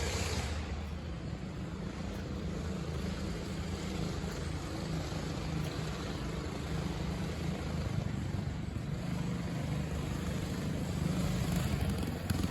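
Mini bike's Predator single-cylinder four-stroke engine running under way, driving through a Comet torque converter, its pitch wavering a little with the throttle. It grows louder near the end.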